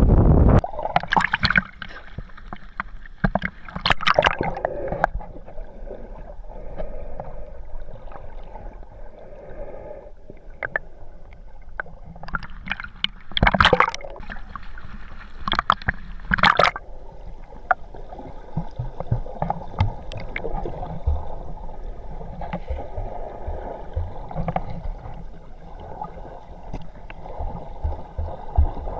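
Water sloshing and gurgling, with a few sudden louder splashes.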